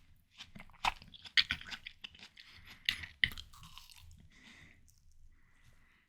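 Close-up chewing of ripe, juicy watermelon: a string of crisp, wet crunches that are loudest in the first half and soften toward the end.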